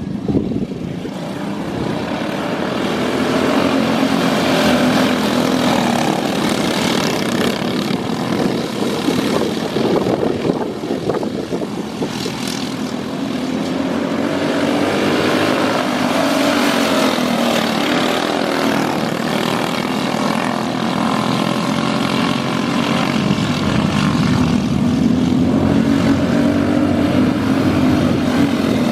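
Small engines running on the dirt track, their pitch rising and falling in long sweeps as they speed up and slow down.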